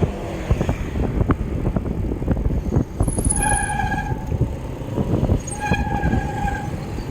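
Wind and road rumble on the microphone of a moving bicycle. Over it, a steady pitched tone sounds twice for just under a second each, the first about three seconds in and the second about five and a half seconds in.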